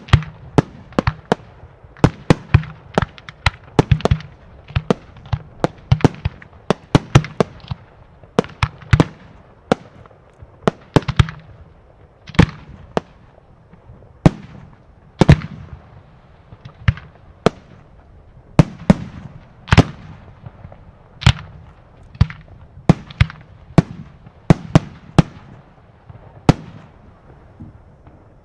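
Professional fireworks display: an irregular series of sharp bangs from fireworks launching and bursting overhead, several a second at first, then thinning to about one a second.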